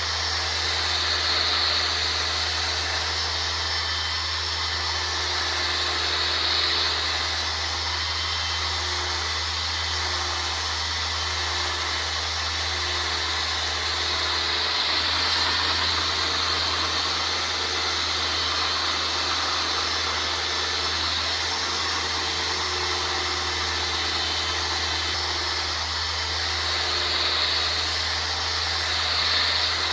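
A power sander running steadily on body panels during paint prep, its hiss swelling and easing every few seconds over a steady low hum.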